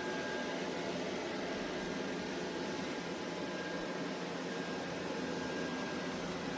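ECOVACS Deebot T50 Omni robot vacuum running, a steady whirring hiss with faint high whining tones over it.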